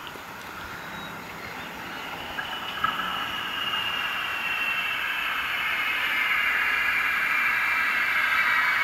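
Light rail train approaching along the track, growing steadily louder, with a high whine that drifts slowly lower in pitch.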